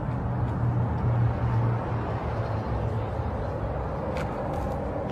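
Rat rod's engine idling steadily, a low even rumble through short, wrap-covered open header pipes.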